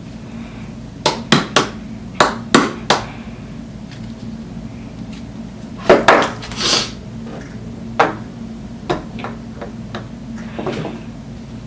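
Sharp knocks and clicks of skate bearings being forced into roller-skate wheels: two quick runs of three knocks, a longer rattling clatter about six seconds in, then a few scattered taps.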